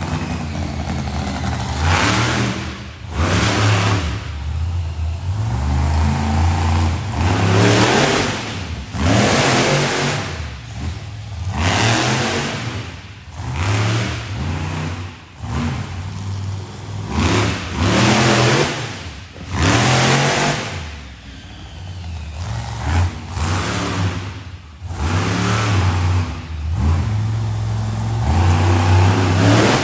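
Monster truck engine revving hard in repeated surges, about one every one to two seconds, with the engine note rising and falling between them.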